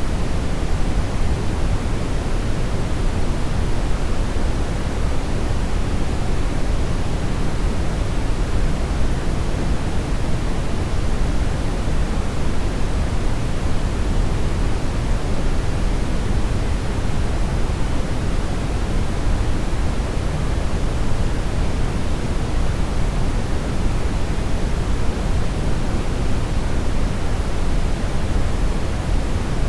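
Brown noise: a steady, unchanging rush of synthetic noise, heaviest in the deep lows and dimming toward the highs, with no events or changes.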